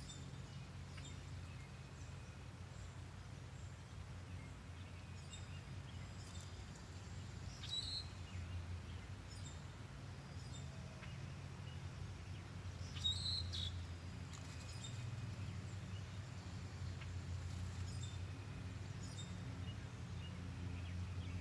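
Quiet yard ambience: a steady low hum with a few short, high bird chirps, two of them standing out near the middle.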